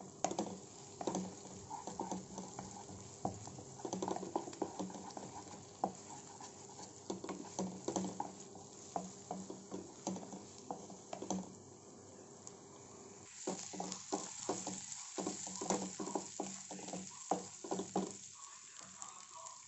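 Onions and ginger-garlic paste sizzling in oil in a kadai while a spatula stirs and scrapes the pan, with many quick taps. About two-thirds of the way through, the sizzle gets brighter and louder.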